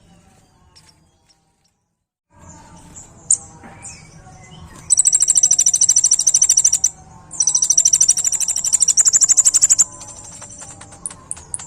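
Kolibri ninja sunbird singing fast, high-pitched rattling trills ('tembakan'). Two long trills of about two seconds each come in the middle, after a short silent gap, and shorter bursts follow near the end.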